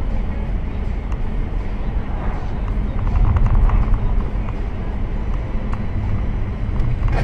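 Steady engine and road noise heard from inside a moving car, a deep rumble that swells a little about three seconds in, with a few faint ticks.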